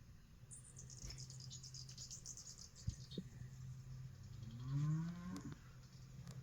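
Outdoor animal sounds: high bird-like chirps in the first few seconds over a steady low hum, then a low, loud call that rises in pitch about five seconds in, like a cow lowing.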